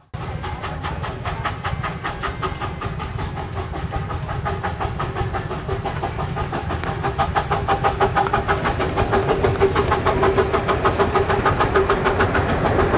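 Small-gauge passenger train running toward the listener: a fast, even clatter of about six beats a second with a steady tone under it, growing louder over the last few seconds.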